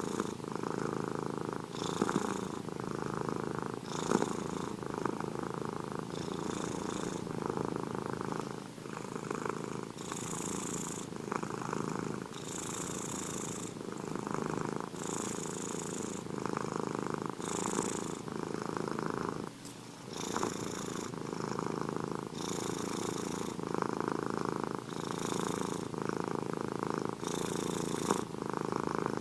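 Domestic cat purring steadily and close up, the purr changing slightly with each breath in and out.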